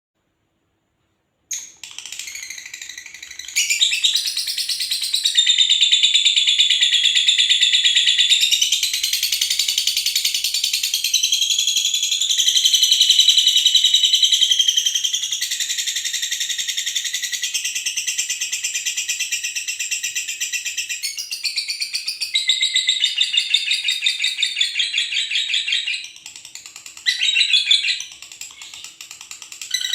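A pair of lovebirds chattering in long, rapid, high-pitched trills, almost without pause, with a couple of short breaks near the end.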